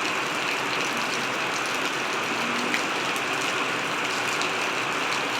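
Rain falling steadily: an even hiss of rain with a few faint drip ticks.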